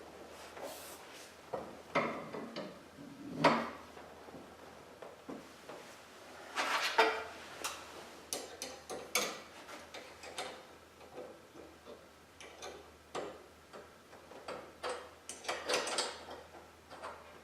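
Irregular clinks, clicks and knocks of hand tools on metal garage-door hardware, the sharpest about three and a half and seven seconds in, a few with a short metallic ring.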